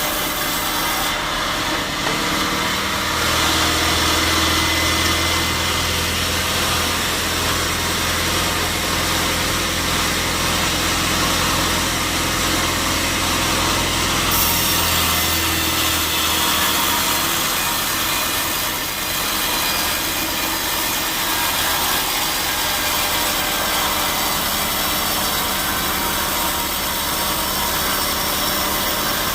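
Sawmill saw blade cutting steadily through a large teak log, a continuous rasping saw noise. A low motor hum runs under it for the first half and then drops away.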